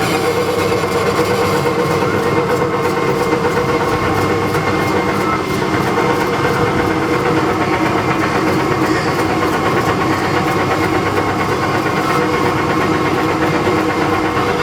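Ride-on tractor running steadily, a constant machine drone with a steady humming tone.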